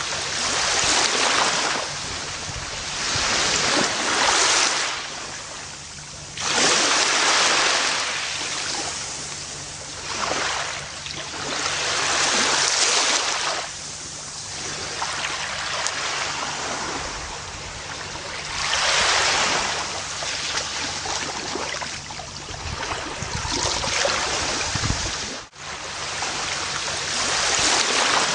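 Gentle ocean waves breaking and washing up the shore, swelling and receding every few seconds, with a split-second gap near the end.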